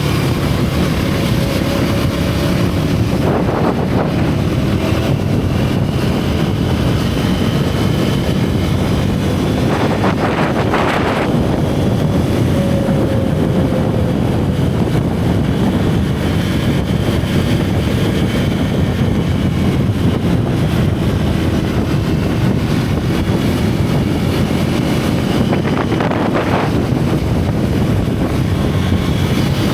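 Single-cylinder motorcycle engine and exhaust running under way, its pitch gently rising and falling with the throttle, mixed with wind rushing over the microphone. There are a few brief louder gusts.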